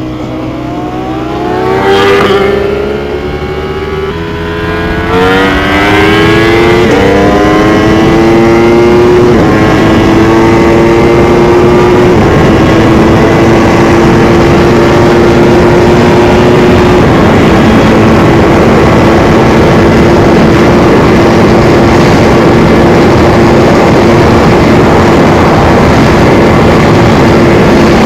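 Sport motorcycle accelerating hard through the gears. The engine's pitch climbs and drops back at each upshift, about five times in the first seventeen seconds, then holds steady at high speed under a loud rush of wind noise.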